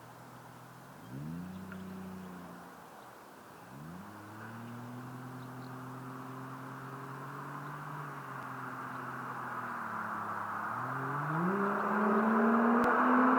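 Toyota 1JZ-GTE turbocharged straight-six exhaust through a ReiN HarD Cannonball dual muffler. The engine revs up briefly about a second in and drops back. A second rise near four seconds is held at a steady pitch for several seconds, then the revs climb again near the end, growing louder.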